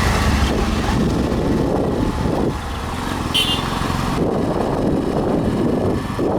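Motorcycle engine running steadily while riding, with road and wind noise. A brief high chirp sounds about halfway through.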